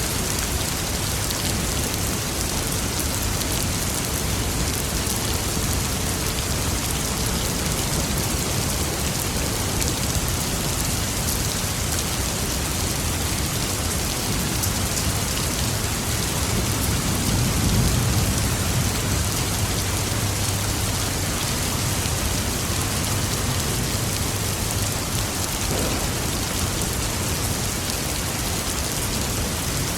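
Steady rain pattering on surfaces, with a low roll of distant thunder that swells about halfway through and fades over several seconds.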